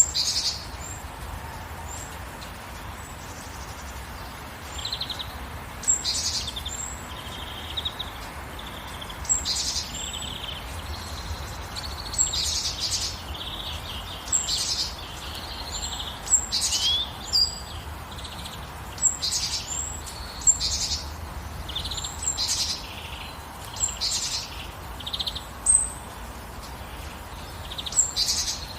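Songbirds chirping and calling in short, repeated phrases about once a second, over a steady hiss of gentle rain.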